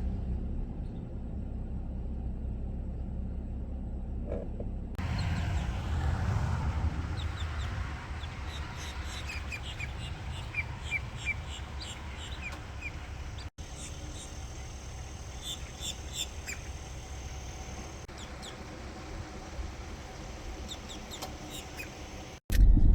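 Small birds chirping in short, quick, repeated notes over a steady low rumble. For about the first five seconds only the low rumble is heard.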